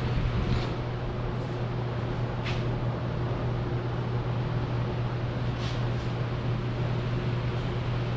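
A steady low mechanical hum with a constant hiss, broken by a few faint clicks.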